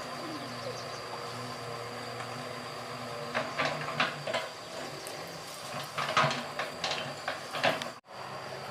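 Excavator engine running steadily, with a quick series of sharp knocks and clanks from about three seconds in. The sound cuts out for an instant near the end.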